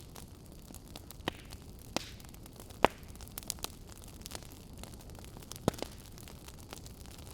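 Wood fire crackling in a fireplace: a steady low hiss with scattered sharp pops and snaps, the loudest about three seconds in.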